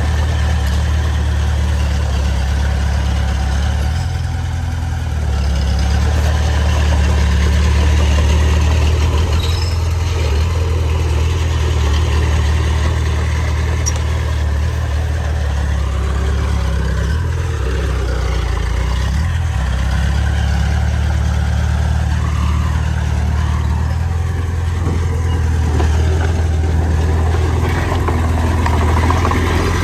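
Heavy diesel engine of earthmoving machinery running steadily, with a brief swell in level a few seconds in.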